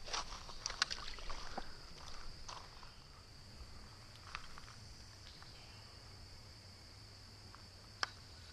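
Steady high-pitched drone of crickets or other insects, with scattered rustling and light knocks in the first couple of seconds and one sharp click near the end.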